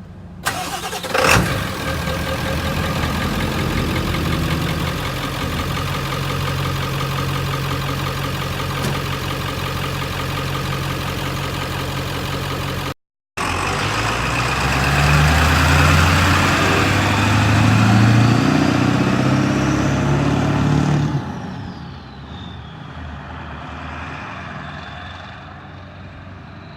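Ford F-250's 7.3 Power Stroke diesel engine running, revving harder from about halfway through. It then settles down with a high whine that falls in pitch.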